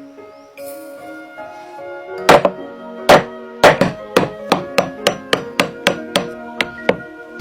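Repeated sharp hammer strikes over background music. Three heavy blows come about two seconds in, then a quicker, even run of about three strikes a second.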